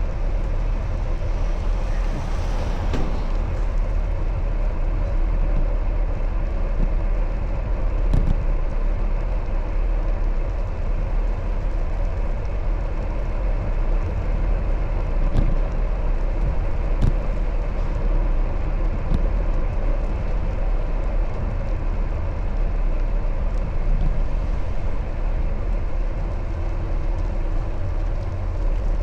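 Steady rumble of wind and road noise while riding a bicycle, with a few faint clicks.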